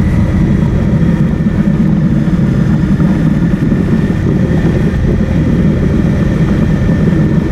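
Motorcycle riding at road speed: a steady rush of wind noise with engine noise underneath.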